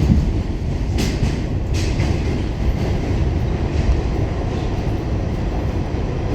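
Pullman Standard R46 subway car running on the rails, heard from inside the car: a steady low rumble of wheels and motors. Two short, sharper noises break through about one and two seconds in.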